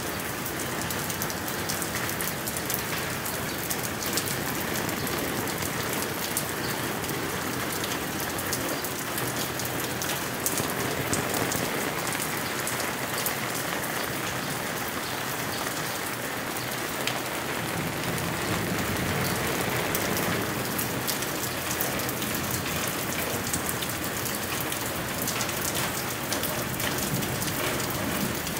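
Steady heavy rain falling on asphalt pavement, parked vehicles and plants, a dense hiss with many fine drop ticks.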